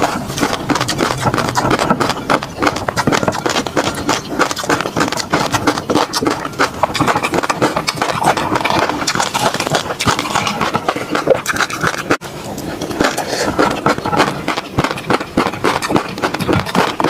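Close-miked eating sounds of food with peanut sauce: chewing and mouth sounds made up of a dense stream of small clicks and crackles, with one sharper click about twelve seconds in.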